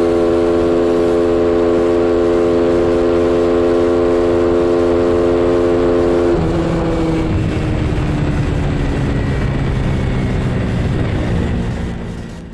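Train horn sounding one long, loud multi-tone blast. About six seconds in its pitch drops suddenly and keeps falling as the train passes, then it fades under the rumble of the train.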